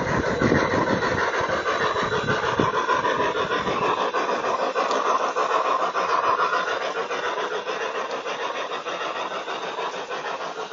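Model train running along its track with a steady, rapid rhythmic clatter. A low rumble drops out about four seconds in, and the sound then slowly fades as the train moves off.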